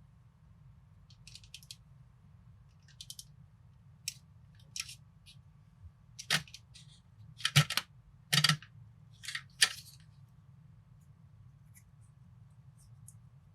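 Plastic building bricks clicking and snapping together by hand: scattered light clicks, with a cluster of louder snaps in the middle.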